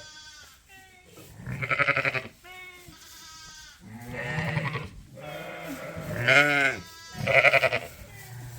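Ewes and lambs bleating repeatedly: about four loud, quavering bleats with quieter, lower calls between them.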